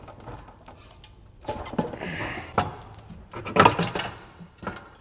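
Wrenches and metal exhaust parts clanking while an exhaust is unbolted: a run of sharp metallic knocks and clicks, loudest about three and a half seconds in, with a short hiss just after two seconds.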